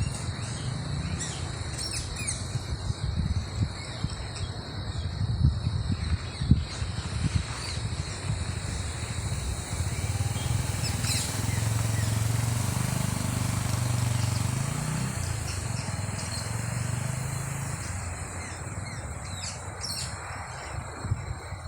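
Birds chirping in short calls over a steady high insect drone. A motor vehicle passes in the background, its hum swelling in the middle and fading out, with low rumbling throughout.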